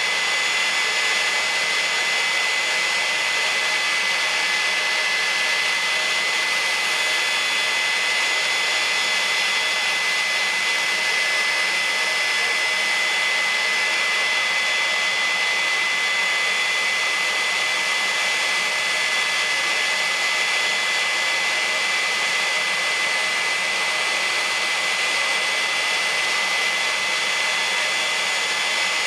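Jet engine of a jet-powered drag vehicle running steadily, a constant loud rush with a high-pitched turbine whine that holds one pitch throughout.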